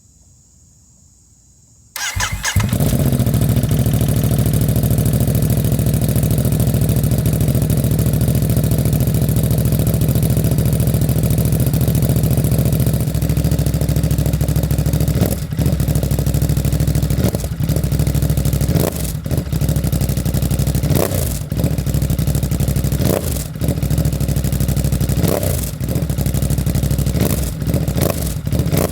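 2024 Ducati Monster SP's 937 cc Testastretta V-twin, breathing through a Termignoni race exhaust, starts about two seconds in and settles into a steady idle. From about halfway, it gives a series of short throttle blips, each revving up and dropping back to idle.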